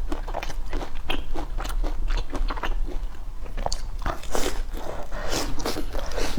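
A person chewing and biting crisp food close to the microphone: many short, irregular crunches, several a second.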